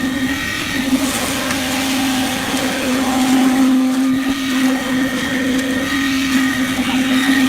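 A machine motor running steadily with a strong, even hum and a noisy whirr above it.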